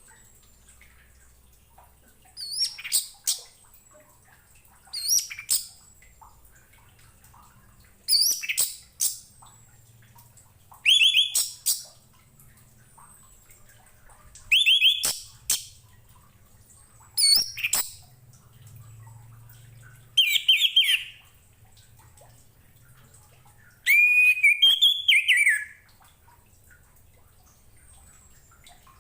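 Orange-headed thrush (anis merah) singing: eight short song phrases separated by pauses of one to three seconds, the last one longer at about two seconds.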